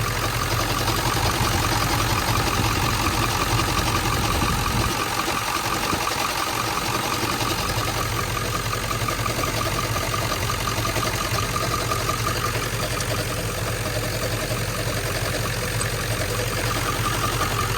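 Ford 7.3L Powerstroke turbo-diesel V8 idling with a fast, steady, rhythmic chatter and knock, which the owner traces to one of the belt-driven pulleys at the front of the engine.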